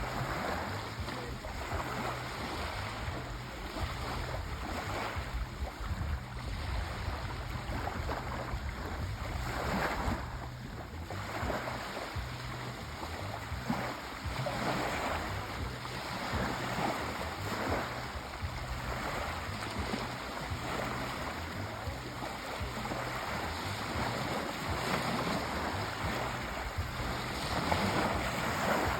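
Sea waves washing onto a shore in a steady rush of surf, swelling and easing every few seconds.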